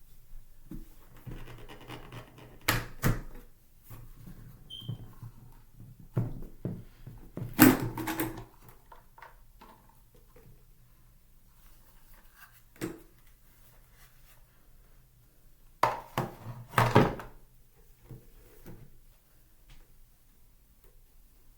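Scattered thunks and knocks of objects being handled, with short clusters of clattering about eight seconds in and again around sixteen to seventeen seconds in.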